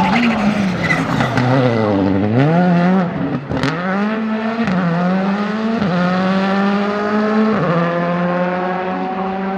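Skoda Fabia R5 rally car's turbocharged 1.6-litre four-cylinder engine at full attack: the revs dip and climb back, a sharp bang sounds about three and a half seconds in, then the engine pulls through three quick upshifts, each a sudden drop in pitch.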